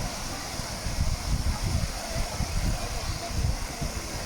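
Steady rush of a waterfall's water over rock, with uneven low gusts of wind buffeting the microphone.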